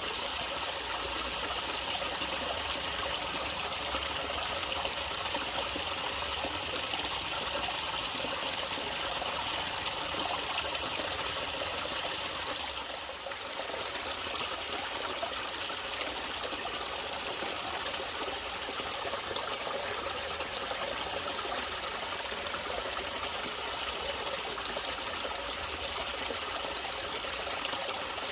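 Natural flowing water, a stream trickling and running steadily. It dips briefly in level about halfway through.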